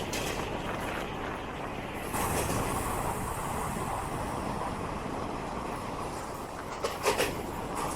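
Passenger train running, heard from on board a non-AC double-decker coach: a steady rumble of wheels on rail that grows louder about two seconds in, with a quick clatter of knocks near the end.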